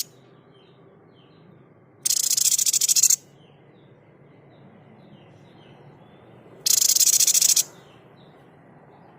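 White-chested babbler (tepus dada putih, the 'sniper' bird) giving two harsh, fast-pulsed rattling calls of about a second each, one about two seconds in and another near seven seconds. Faint short chirps sound between them.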